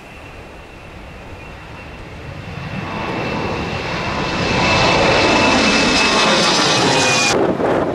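Jet airliner's engines at takeoff power, growing steadily louder as it approaches, with a steady high-pitched fan whine over the engine noise. The sound cuts off suddenly shortly before the end.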